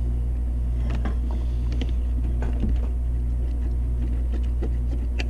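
Steady low mechanical hum of running geothermal heat-pump equipment, with scattered light clicks and ticks.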